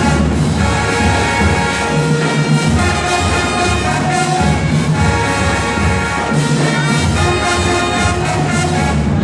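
Marching band playing loudly, brass-led, with trumpets and trombones over heavy low brass.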